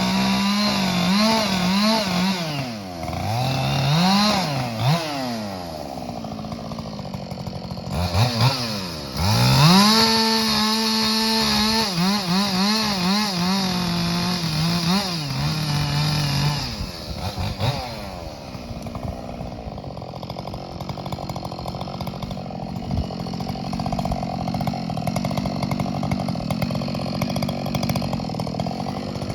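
Ported Husqvarna 572XP two-stroke chainsaw running at high revs, its pitch dropping and climbing back several times. After about 17 seconds it runs quieter and steadier.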